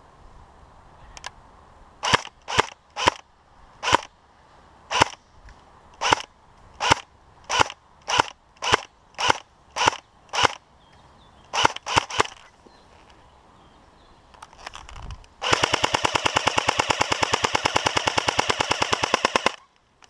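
Airsoft gun firing: about sixteen single shots over roughly ten seconds, unevenly spaced, then a continuous full-auto burst of about four seconds that cuts off suddenly.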